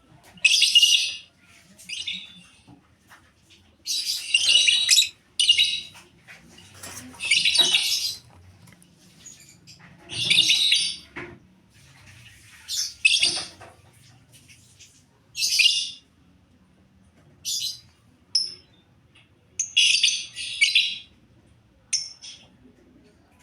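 Pet lovebirds calling: a series of short, harsh, high-pitched screeches and chirps, coming in irregular bursts of about half a second to a second, with short pauses between.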